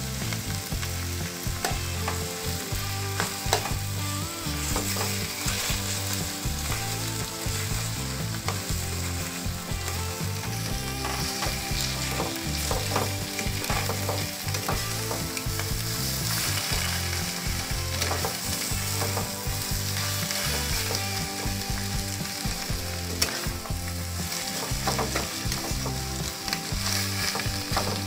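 Shredded cabbage, onion and egg sizzling steadily in a nonstick wok while a flat spatula stirs and turns them, with scattered short scrapes and taps of the spatula against the pan.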